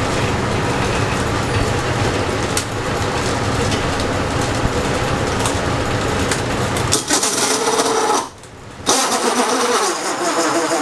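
Power tool running on a wooden bowl blank. The sound changes about seven seconds in, cuts out briefly about a second later, then starts again.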